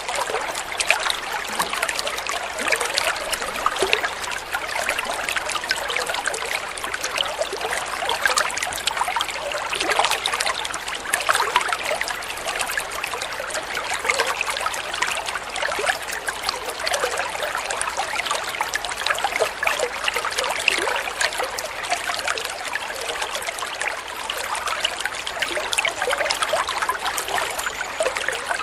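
Water flowing and trickling steadily, a continuous splashing burble with many small bright splashes.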